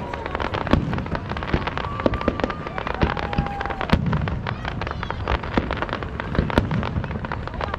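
A fireworks display: a steady rapid run of bangs and crackles, with a couple of short whistling tones near the middle.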